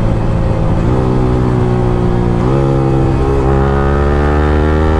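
Yamaha R15M's 155 cc single-cylinder engine through an aftermarket Akrapovic free-flow exhaust while riding. The engine note steps up in pitch twice, about one and two and a half seconds in, then climbs steadily as the bike accelerates.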